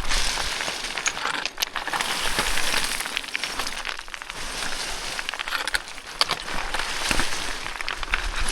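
Footsteps crunching and sliding on loose scree, with many small stones clicking against each other, in an irregular run of crunches.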